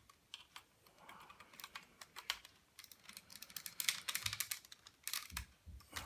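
Plastic parts of a Hasbro Optimus Prime Transformers figure clicking and rattling as it is handled and the gun is fitted into its back, the clicks sparse at first and coming much faster in the second half, with a few soft knocks near the end.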